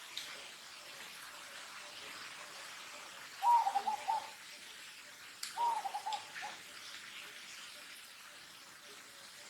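Two short animal calls about two seconds apart, each a quick wavering run of notes, over a steady faint hiss.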